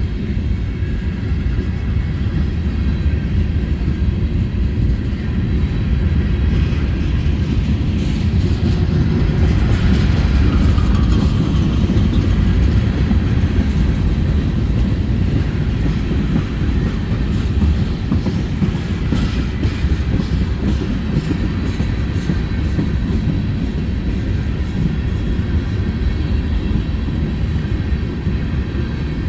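Norfolk Southern freight train's cars rolling past, a steady heavy rumble of wheels on rail. A brief falling squeal comes about ten seconds in.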